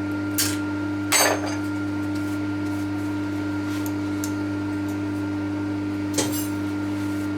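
Metal hand tools clinking and clanking as they are moved off a milling machine bed, three short knocks with the second one the loudest, over a steady machine hum.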